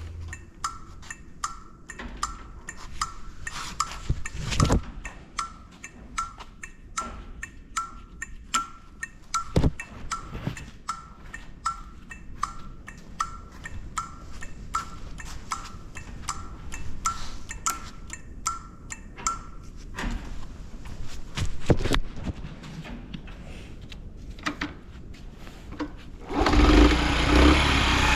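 Regular short ticks, about one and a half a second, with a few louder thuds, then near the end a Honda Chaly CF50's 49 cc single-cylinder four-stroke engine starts from cold and settles into a steady idle.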